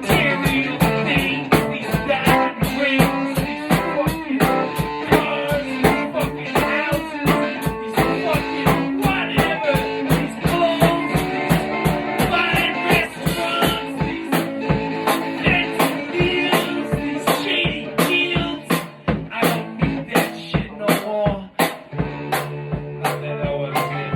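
Band music with no vocals: a drum kit keeps a steady beat under guitar.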